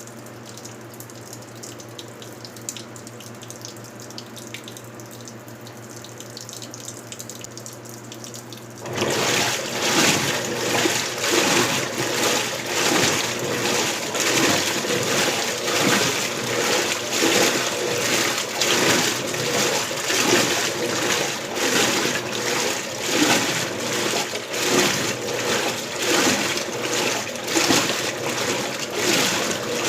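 Electrolux LBU15 top-load washing machine filling with water for the rinse; about nine seconds in the agitator starts and the sound jumps to loud, rhythmic sloshing of water and clothes, surging about once a second.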